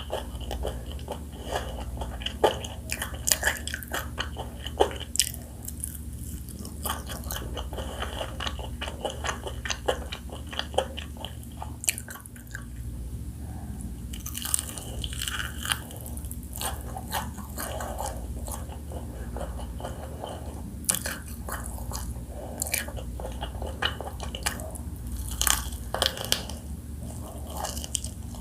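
Close-miked biting and chewing of crispy spicy fried chicken: irregular crunches of the fried coating, with chewing in between.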